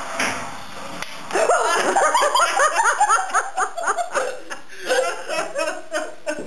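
Hearty laughter, a fast run of repeated ha-ha sounds, breaking out about a second and a half in and going on to the end.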